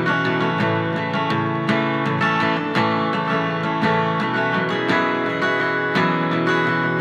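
Instrumental passage of a song: acoustic guitar strummed in a steady rhythm.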